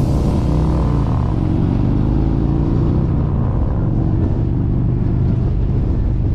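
Harley-Davidson V-twin motorcycle engine running loud and steady while under way, its pitch easing down over the first second or so and then holding even.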